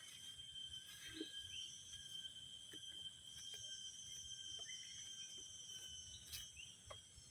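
Faint, steady drone of insects, several high tones held together, with a couple of short bird chirps and a few small clicks.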